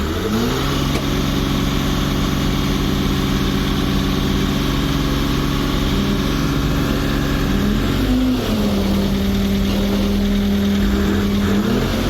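Truck engine revving up and holding a steady high speed, then dropping to a lower steady speed about two-thirds of the way through, and revving up again near the end.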